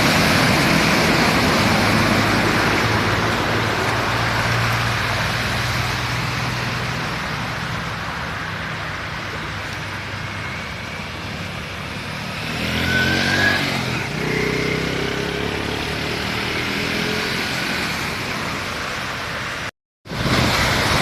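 Road traffic on a flooded road: vehicle engines running past over a steady rushing noise, with one louder vehicle going by about 13 seconds in.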